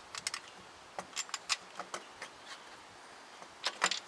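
Scattered light metallic clicks and taps, irregular and a few at a time, as a starter mounting bolt is fitted and turned by hand to start it in its threads, with a small cluster near the end.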